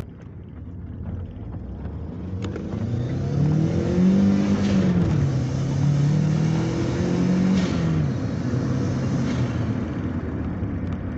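Turbocharged VW Parati 1.0 16-valve four-cylinder engine revved up and let down twice, with turbo flutter as the throttle closes.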